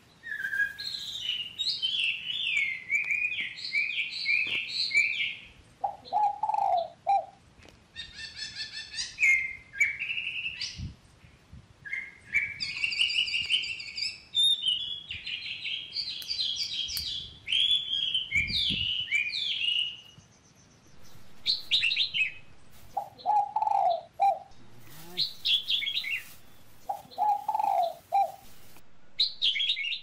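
Birds singing: a string of quick, varied chirping and warbling phrases, one after another, with a lower, shorter call breaking in three times.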